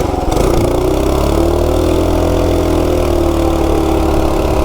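Coleman RSV minibike's 196cc single-cylinder engine, governor removed and fitted with a Coso carburetor, running; its pitch rises a little and then eases slowly down.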